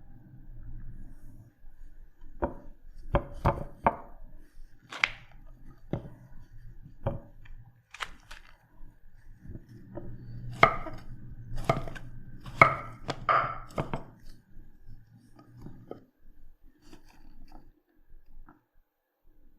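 Knife chopping food on a cutting board: irregular sharp knocks, coming thickest about ten to fourteen seconds in, with a faint low hum beneath.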